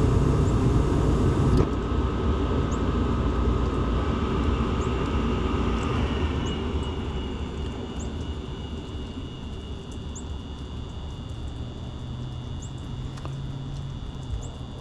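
Gas furnace running: a steady low rumble with a faint whine from its motors. It drops in level sharply about a second and a half in, then carries on more quietly.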